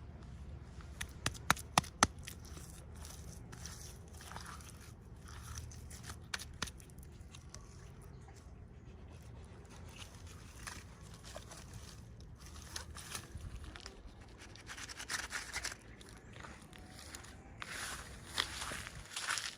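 Scattered light clicks, taps and short scrapes of small objects being handled, over a low steady hum.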